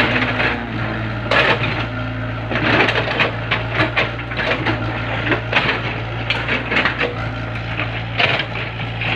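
Excavator breaking up a wooden bridge: repeated irregular cracking, crunching and splintering of timber over the steady running of its engine.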